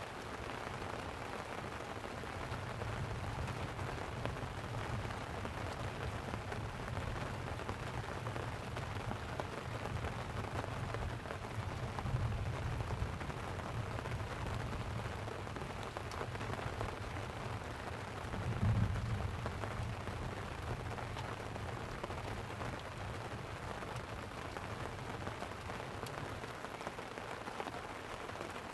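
Light rain falling steadily on a tent, with a low rumble of thunder underneath that swells about twelve seconds in and again, loudest, about nineteen seconds in.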